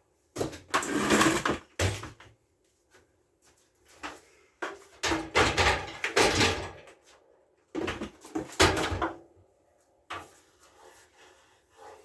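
Handling noise: four bursts of scraping and clattering, each a second or two long, with short quiet gaps between them.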